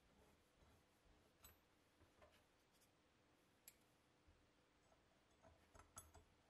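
Near silence: faint room tone with a few soft, scattered clicks and taps, the clearest about two-thirds of the way in and a small cluster near the end.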